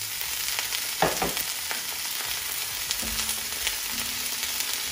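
Stir fry of pork, broccoli and carrot sizzling in a hot pan while being stirred, with a sharp knock about a second in.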